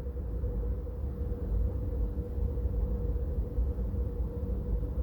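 Steady low rumble with a faint, even hum above it, no speech: background noise on the recording during a pause.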